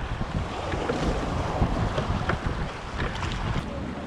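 Wind buffeting the microphone over the wash of the sea around a rowed wooden gig, with a few faint clicks.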